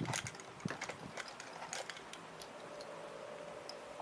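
Scattered small clicks and taps from handling a plastic toy coin bank, thinning out after about two seconds.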